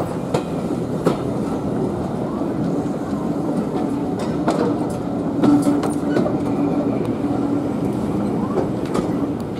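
Heritage railway carriage rolling along, heard from on board: wheels clicking over rail joints over a steady rumble, with a steady hum through the middle of the stretch.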